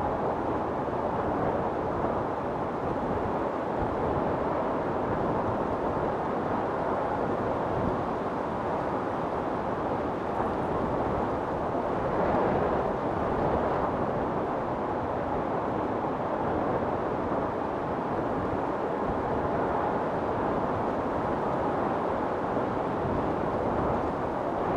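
Wind storm blowing as a steady, even rush of noise, swelling slightly about halfway through.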